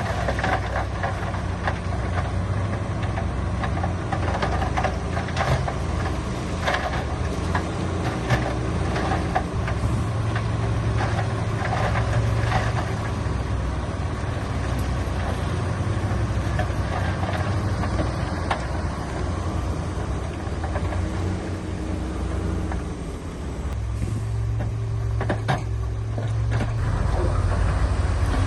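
Heavy diesel earthmoving machinery running steadily, with scattered sharp clanks and knocks. The engine grows louder about three-quarters of the way through.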